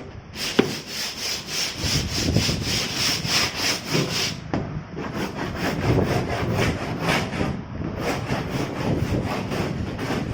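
Rhythmic back-and-forth strokes of a hand tool working a hard surface, about three strokes a second, like hand sawing or sanding. The strokes are brightest in the first four seconds, ease briefly, then carry on duller.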